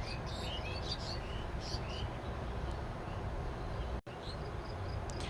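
Steady low background hum and hiss, with faint, scattered bird chirps and a brief dropout about four seconds in.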